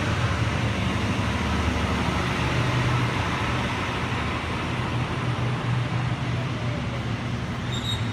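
Sydney Trains Waratah electric train running at the platform: a steady noise with a low hum, easing slightly partway through.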